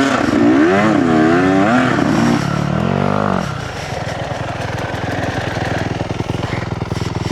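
Dirt bike engine revved up and down several times, then settling to a steady idle about three and a half seconds in.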